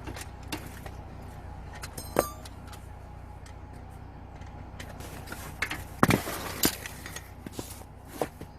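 Scattered sharp knocks and clinks over a steady low hum: a ringing metallic clink about two seconds in, and two loud knocks about six seconds in.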